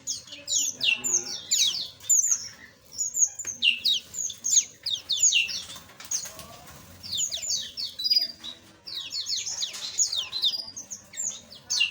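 A flock of small aviary birds chirping: many quick, short, downward-sliding chirps overlapping one another, thinning out briefly a little past halfway before picking up again.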